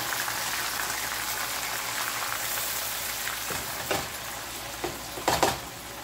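Blended pepper purée poured into hot palm oil and onions in a frying pan, sizzling loudly and easing off after about three and a half seconds. A few sharp knocks come near the end.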